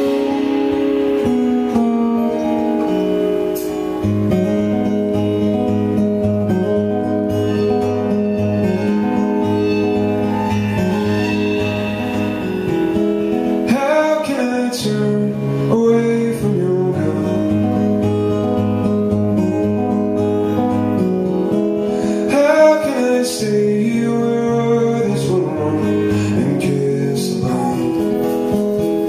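Live acoustic band playing an instrumental intro led by acoustic guitar, with a deeper line of held notes coming in about four seconds in.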